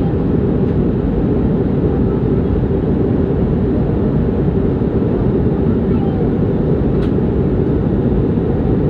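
Steady, loud noise of jet engines and rushing air inside an airliner cabin in flight, mostly a deep, even rumble, with a faint tick about seven seconds in.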